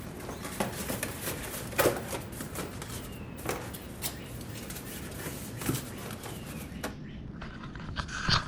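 Cardboard being handled and fitted into place by hand, with rustling and scattered light knocks; the sharpest knocks come about two seconds in and near the end.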